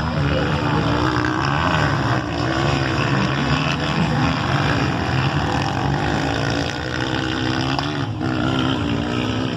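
Several motocross dirt bikes' engines revving on the track, their pitch rising and falling as riders open and close the throttle.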